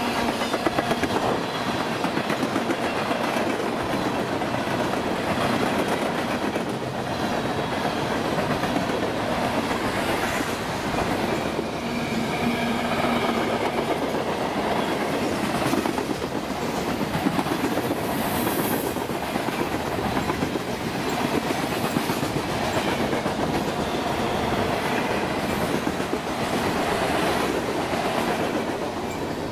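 Cars of a manifest freight train rolling steadily past close by: a continuous rumble of steel wheels on rail, with repeated clicks as the wheels cross rail joints.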